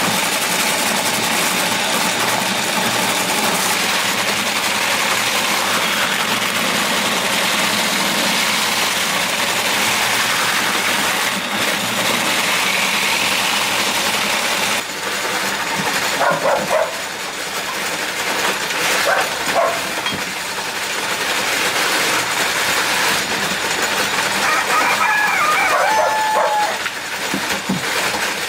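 Chickens calling, with a few short calls about halfway through and again near the end, over a loud steady droning background.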